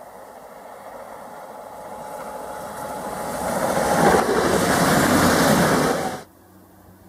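Stadler FLIRT passenger train passing close at speed over snowy track: a rushing whoosh of the train and its slipstream that builds over a few seconds to its loudest, then cuts off suddenly about six seconds in.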